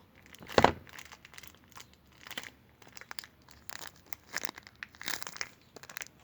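Irregular crinkling and crackling of something being crumpled or handled, with one louder crackle about half a second in.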